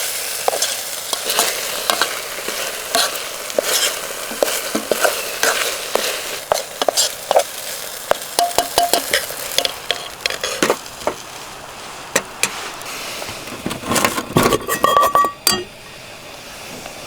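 Keema curry sizzling in a frying pan while a utensil stirs and scrapes it, with frequent clicks of the utensil against the pan. Near the end come a few louder metallic knocks with a short ring, and the sizzling drops away.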